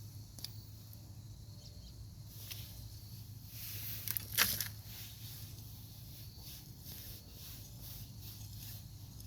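Gloved hands digging through soil and sweet potato roots in a grow bag: faint rustling and crackling, with one louder scrape about four seconds in, over a faint steady low hum.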